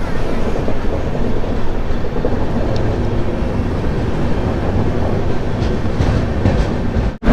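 Steady running rumble of a double-decker express train heard from inside a coach, with wheels going over the rails. It cuts off abruptly near the end.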